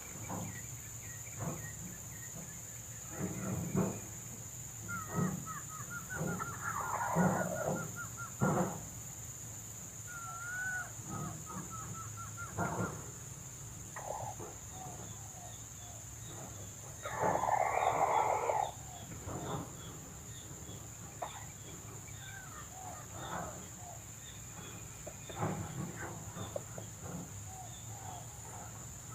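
Red junglefowl clucking and calling in short, scattered bursts among other bird calls, with one louder burst about two thirds of the way through. A steady high-pitched insect drone runs underneath.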